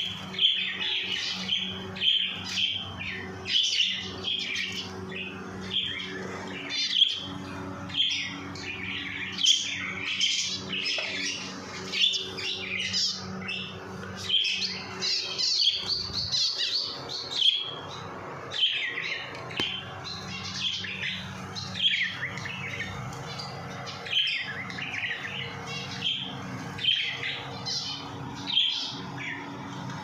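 Several small caged pet birds chirping, a constant stream of short high calls, over a steady low hum.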